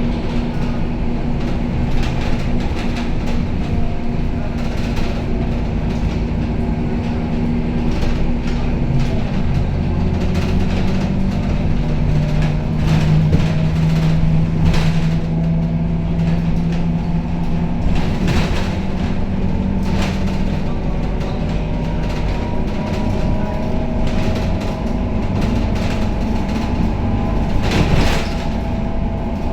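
Scania K270UB city bus heard from inside the cabin while riding: the diesel engine runs and pulls steadily, with short rattles and knocks from the body and fittings. A whine rises in pitch through the later part as the bus picks up speed.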